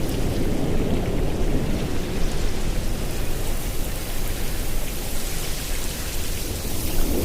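Ocean surf: a steady wash of breaking waves with a deep rumble, swelling as another wave comes in near the end.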